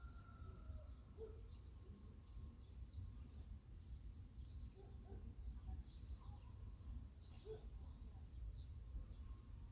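Small birds chirping faintly in short, high, downward-sweeping notes every half second to a second, over a low rumble. A bee's buzz fades out in the first second.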